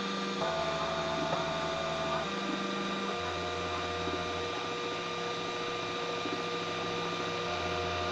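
3D printer's stepper motors whining as it prints, the tones jumping to a new pitch every second or two as the moves change, over a steady hum.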